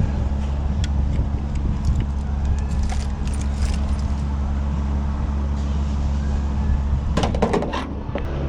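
Steady low drone of engine and road noise heard from inside a moving vehicle's cabin, with small rattles and clicks over it. A brief louder sound comes about seven seconds in.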